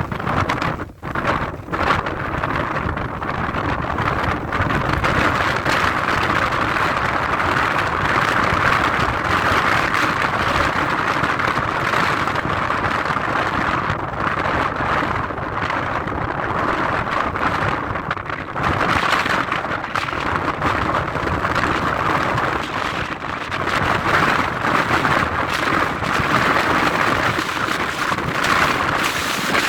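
Jet aircraft engine noise: a loud, steady rushing noise that swells and eases a few times.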